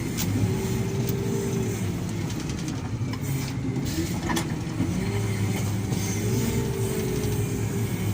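Diesel engines of heavy earthmoving machinery, an excavator and a wheel loader, running steadily at work, with a whine that slowly rises and falls several times. A sharp knock about four seconds in.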